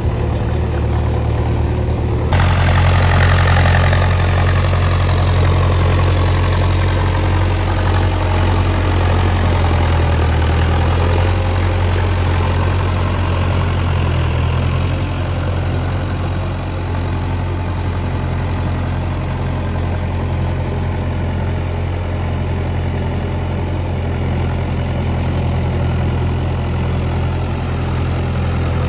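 Mahindra Arjun Novo 605 DI 4WD tractor's diesel engine running steadily under load, driving a rotavator through deep mud. The sound gets suddenly louder and harsher about two seconds in, then slowly settles.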